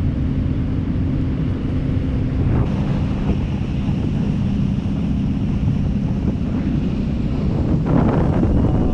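Cruise boat's engine running steadily, with wind buffeting the microphone. The engine hum steps slightly lower in pitch a few seconds in, and a louder gust of wind noise comes near the end.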